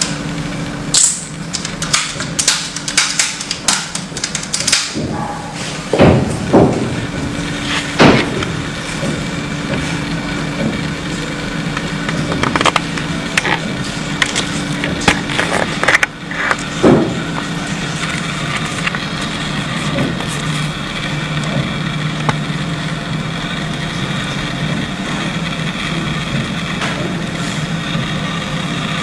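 Sharp plastic clicks and knocks from a mechanical keyboard being taken apart. They come in quick succession for the first few seconds, then singly now and then, over a steady hum.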